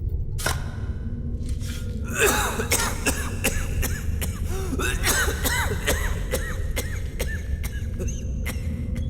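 A man coughing again and again and wheezing, struggling for breath, over a steady low rumble. The coughing starts about two seconds in.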